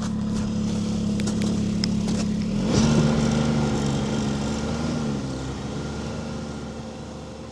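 Snowmobile engine running under way while towing a loaded sled, revving up about three seconds in, easing back a couple of seconds later, then fading away near the end.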